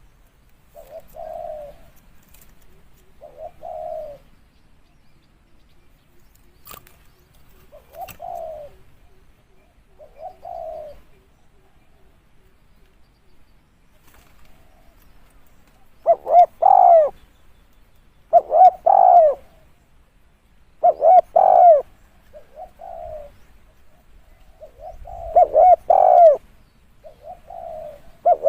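Spotted dove cooing: short phrases of soft coos at first, then from about halfway much louder, fuller coos repeating every two seconds or so.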